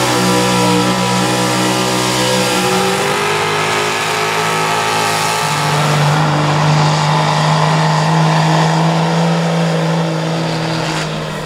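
Pulling truck's engine running hard at full throttle, its pitch shifting in steps a couple of times as it works under load.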